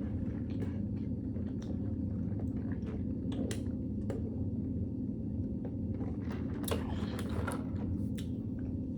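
Close-up chewing and mouth smacking of someone eating, a scatter of small wet clicks, with a few more together about two-thirds of the way through, over a steady low hum.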